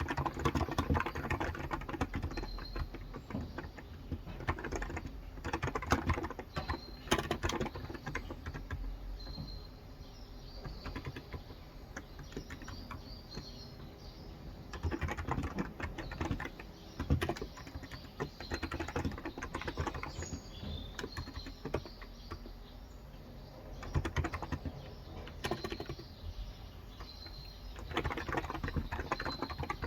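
Typing on a Cox Endeavor electro-capacitive (Topre-style) tenkeyless keyboard with light 35 g switches: fast bursts of soft keystrokes, easing off for a few seconds in the middle and picking up again near the end. Birds chirp faintly in the background.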